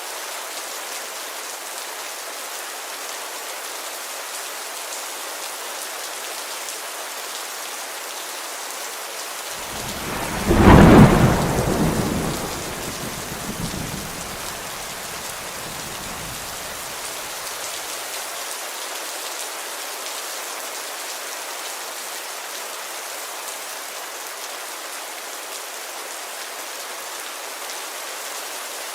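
Steady heavy rain pattering on a window glass. About ten seconds in, a single clap of thunder breaks out loudly, then rumbles away over several seconds.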